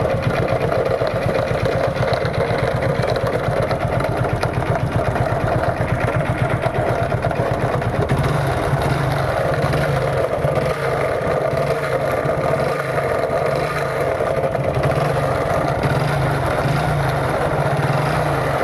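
Motorcycle engine running steadily without revving, with an abnormal mechanical noise: a fast, even rattle laid over the engine beat. The fault behind it is not named.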